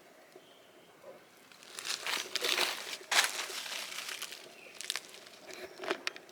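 Crinkling, crackling rustle of something being moved or handled, starting about a second and a half in, with a sharp crackle near the middle and a few smaller ones near the end.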